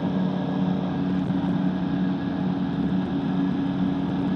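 Flexwing microlight trike's engine and propeller running steadily in cruising flight, a constant even drone.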